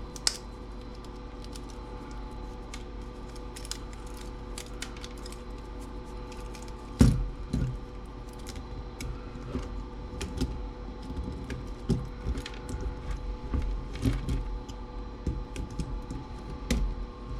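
Small clicks, snips and knocks from cutters and hands working on the stereo's plastic and metal parts while taking it apart for scrap: a sharp snip just after the start, a heavier knock about seven seconds in, then a run of irregular small taps and clicks. A faint steady hum runs underneath.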